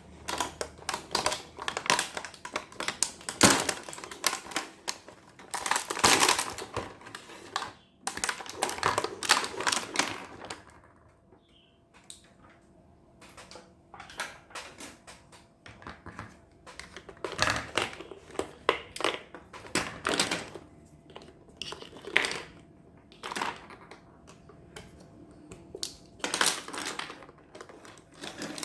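Small plastic miniature kitchen toy pieces and their packaging handled and unboxed: irregular clicks, taps and crinkles, with a quieter stretch about a third of the way in.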